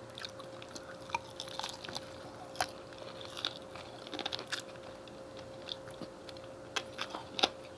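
Close-up chewing and biting sounds of people eating fried chicken and a chicken sandwich: soft, irregular mouth clicks and light crunches. A faint steady hum runs underneath.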